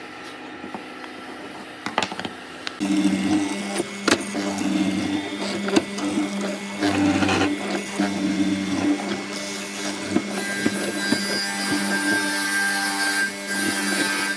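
Electric power tool motor running on wood, starting about three seconds in and changing in loudness as it works, with scattered clicks and knocks; a hiss joins it about ten seconds in.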